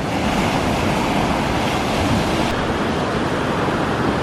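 Steady rush of ocean surf washing onto the beach, with some wind on the microphone.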